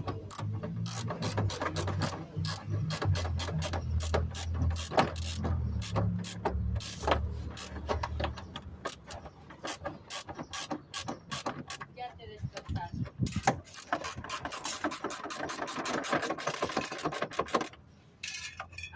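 Ratchet wrench clicking in quick, uneven runs as bolts on the undercar cover are tightened during an oil change, with a low hum under the first half.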